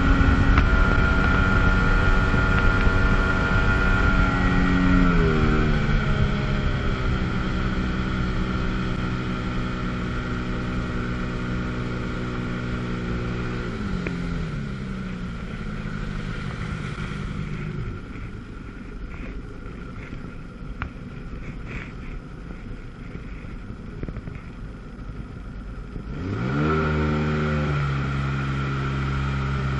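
1997 Sea-Doo GTS jet ski's 720 two-stroke engine running at speed. Its pitch drops in steps about five and fourteen seconds in as the throttle is eased and the sound grows quieter, then it revs back up sharply near the end.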